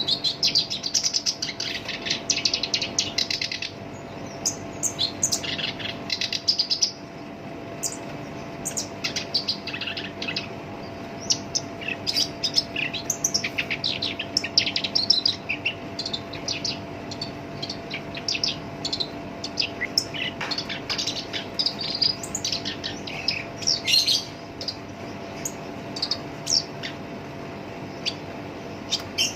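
Black-browed reed warbler singing a fast, harsh, chattering song in bursts of rapid notes, densest in the first few seconds, over a faint steady hum.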